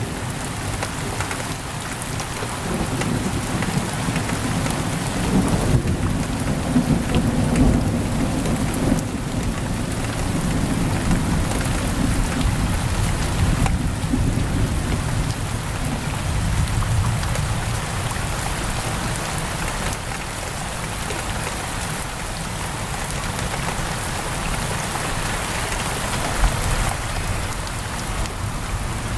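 Heavy rain pouring steadily on a window, with low rolling thunder rumbling through the first half and dying away after that.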